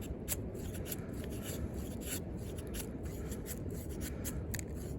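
Steady low wind rumble on the microphone, with faint scattered ticks and light scrapes.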